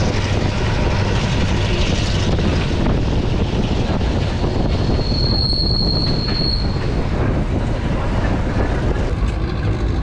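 Passenger train running on the rails: a steady rumble of wheels and carriages, with a high, steady wheel squeal for about two seconds midway through.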